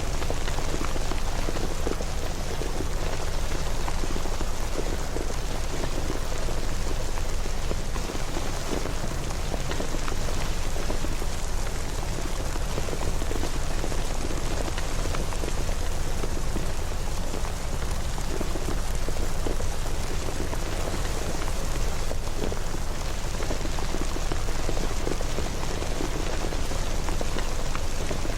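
Steady rain falling, with dense patter of drops over a low rumble, unchanging throughout.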